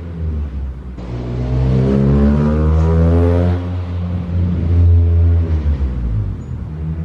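2005 Acura RSX's 2-litre inline-four engine revving: the pitch climbs from about a second in, peaks around three seconds, drops back, then rises and falls once more.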